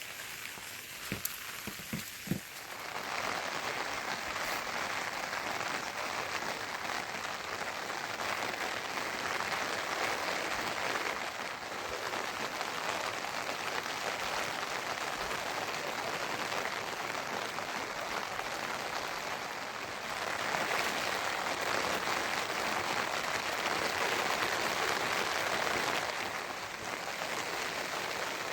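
Steady rain falling, coming on heavier about three seconds in and again for a spell about twenty seconds in. A few light knocks sound in the first seconds.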